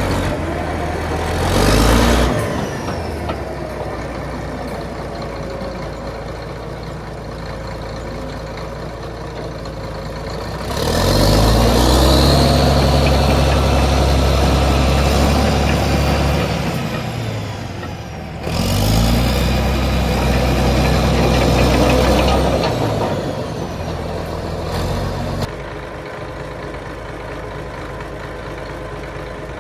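Caterpillar D6C dozer's D333 diesel engine idling, briefly revved about two seconds in, then revved up twice for several seconds each before dropping back to idle.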